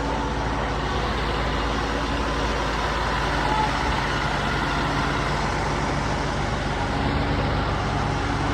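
Tractor diesel engine running steadily at high power, as when one tractor drags another.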